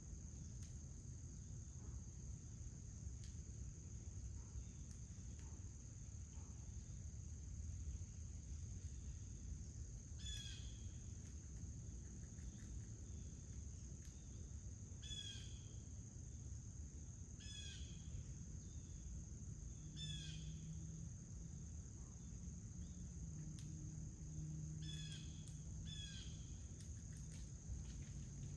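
Steady high-pitched chorus of crickets with a low outdoor rumble, and a bird giving short, falling chirps about seven times from about ten seconds in.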